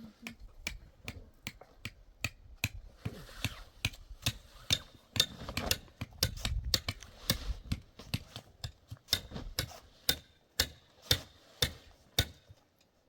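A steady series of sharp knocks, about two a second, like repeated hammer strikes, stopping about a second before the end.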